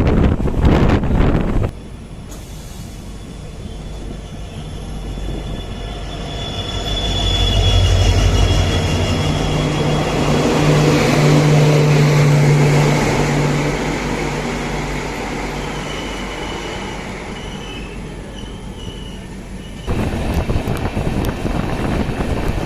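A train passing by: the sound builds for several seconds to a low, steady drone with high-pitched wheel squeal at its loudest through the middle, then fades away. Short stretches of loud wind-like noise come before and after it, split off by abrupt cuts.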